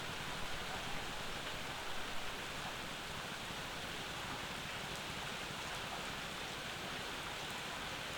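Steady summer rain falling as an even hiss, with a few slightly louder drops in the first couple of seconds.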